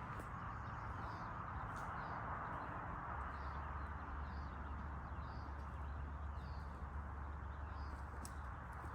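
Steady rushing outdoor noise with a small bird chirping faintly, a short high note about once a second.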